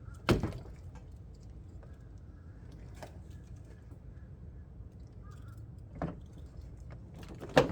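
Knocks and clicks of a headlight assembly and its plastic wiring connectors being handled: one sharp knock just after the start, then three lighter clicks spread through the rest.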